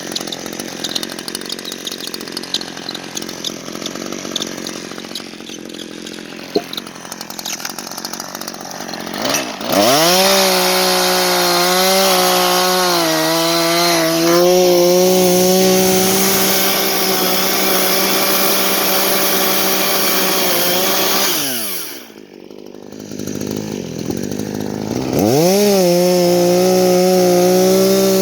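Chainsaw engine running low at first, then revved to full throttle about a third of the way in and held at a high steady pitch. It drops back briefly near the two-thirds mark, then revs up and holds full throttle again.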